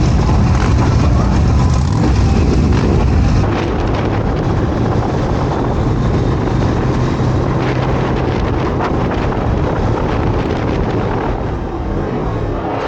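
Motorcycle riding, its engine running under heavy wind noise on the microphone, with an abrupt change in the sound about three and a half seconds in.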